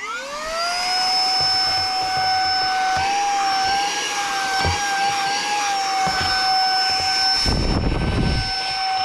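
Saker 3-in-1 cordless handheld mini vacuum's brushless motor spinning up, rising in pitch over the first second, then running as a steady high whine. The pitch wavers a little in the middle as the nozzle works the car carpet, and a brief low rushing noise comes about three quarters of the way through.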